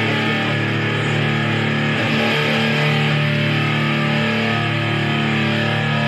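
Electric guitar on its neck humbucker through a Little Big Muff fuzz, a Screaming Bird treble booster and a Hot Tubes overdrive all switched on together, into a solid-state amp: heavily distorted, sustained chords, with a new one struck about two seconds in.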